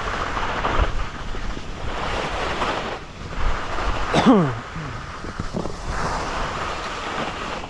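Wind rushing over the microphone of a skier on the move, with the hiss of skis on snow rising and falling. About four seconds in, one short cry that falls steeply in pitch.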